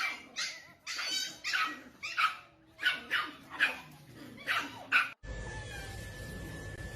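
A dog giving a rapid series of short, high yips and whines, about a dozen in five seconds. It cuts off suddenly into a steady background hiss with a faint, thin, steady high tone.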